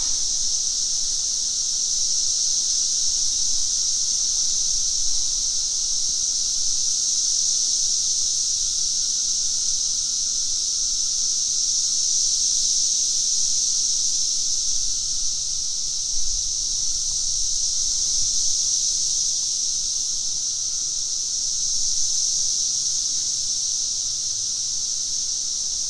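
Dense chorus of periodical cicadas from the 2024 double brood emergence: a loud, steady, unbroken high-pitched drone.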